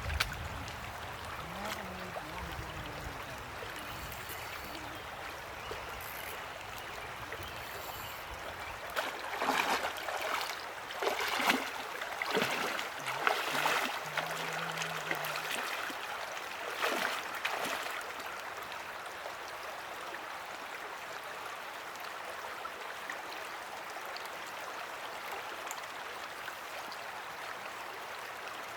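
Steady rush of moving water, with a run of louder, irregular noises in the middle.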